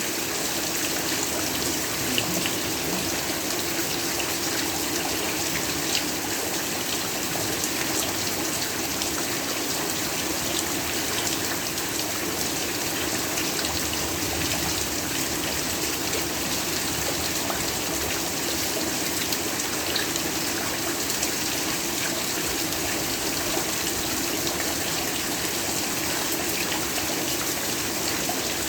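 Heavy rain falling steadily, an even hiss with a few sharper drop hits here and there.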